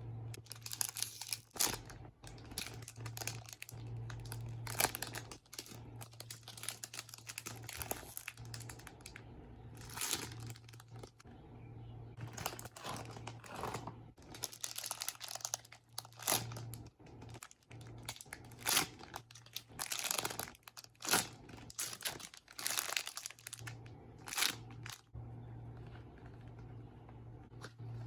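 Crinkling and rustling of plastic wrapping being handled in irregular bursts, over a steady low hum.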